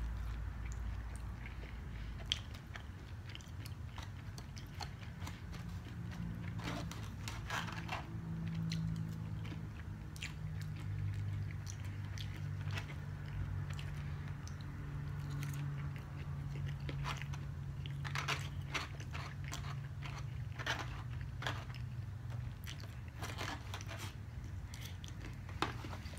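A person chewing and biting fried shrimp close to the microphone: many short, irregular crunches and wet mouth clicks.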